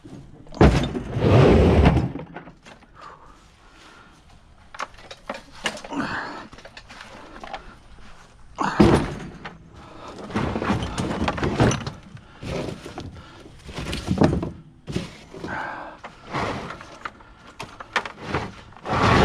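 Heavy 5-gallon buckets of scrap metal (nuts, bolts, tools) being moved and loaded, giving a string of thunks and clanks, the heaviest about a second in and again around the middle.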